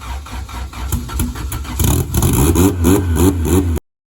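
Turbocharged Honda B18C1 four-cylinder running unevenly just after its first start-up. It is untuned and does not hold an idle on its own. About two seconds in the revs rise and the engine gets louder, then the sound cuts off abruptly near the end.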